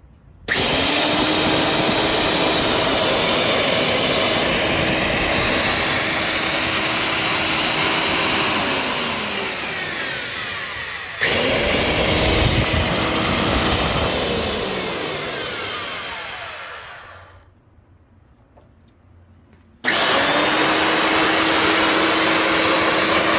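Shibuya TS255 core drill motor started and running steadily, then switched off and winding down before being restarted, then spinning down to a stop, and started again near the end. This is the drill run after its bent spindle was replaced.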